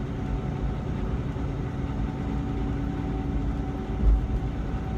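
Semi truck's engine and road noise heard from inside the cab while driving: a steady low drone with a faint steady hum. A low thump about four seconds in.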